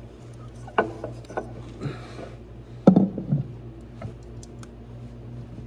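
Metal parts knocking and clinking as a drivetrain part is handled and fitted by hand, with a sharp knock just under a second in and the loudest about three seconds in, over a steady low hum.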